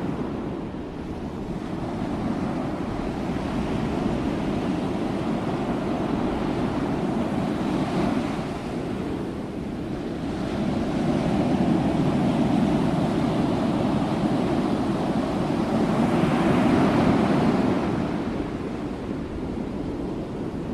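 Sea waves washing in, a steady rush of surf that swells and eases every few seconds. The biggest surge comes a few seconds before the end.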